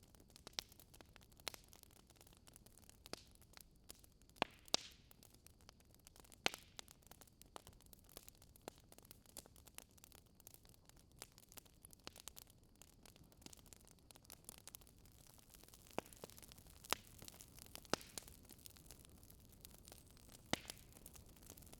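Wood fire crackling in a fireplace: irregular sharp pops and snaps over a faint hiss, a few pops standing out louder.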